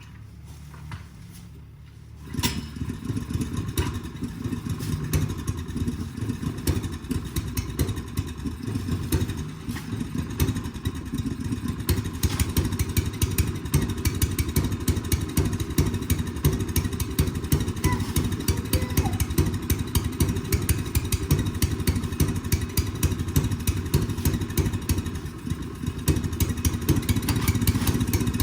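Snowblower's small petrol engine coming in about two seconds in, then running steadily with a rapid firing chatter.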